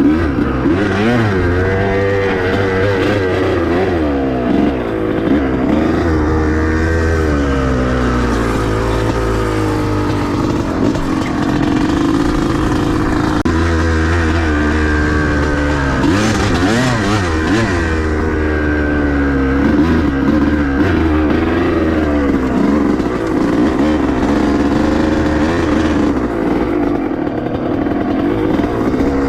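Dirt bike engine being ridden, revving up and easing off over and over as the rider works the throttle.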